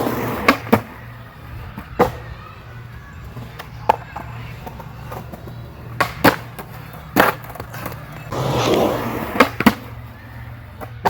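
Skateboard being ridden and tricked: two stretches of wheels rolling, and about ten sharp clacks as the board is popped, lands and strikes the ground.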